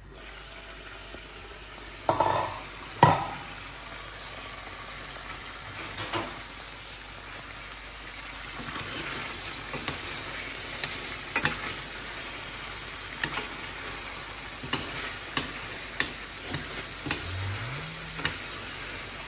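Food sizzling in a pan while being stirred, a utensil clicking against the pan about once a second. Two louder knocks about two and three seconds in.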